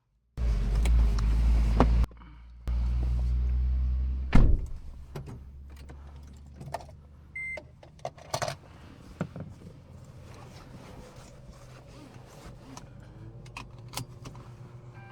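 2013 Toyota Prius power window motor running in two steady runs of about a second and a half each, stopping with a thunk. Then come small clicks and handling noises and one short beep.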